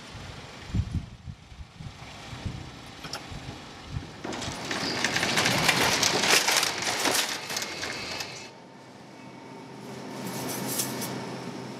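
Shopping cart rolling across a store floor, its wheels and wire frame rattling loudly for about four seconds near the middle. Before it come scattered low thumps, and after it a steady hum.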